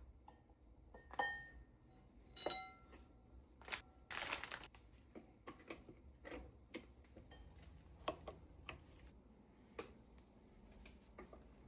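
Kitchen utensils and dishes being handled: two ringing clinks about one and two and a half seconds in, a short scraping or rustling burst about four seconds in, then scattered light taps and knocks.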